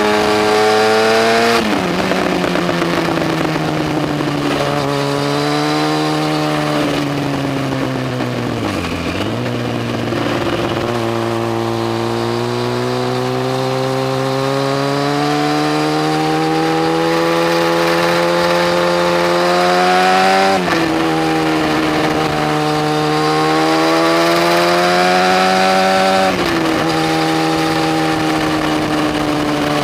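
Yamaha FZ1's inline-four engine under hard acceleration, its pitch climbing steadily and then dropping sharply at each gear change, three times. About a third of the way through the revs fall away and then build again.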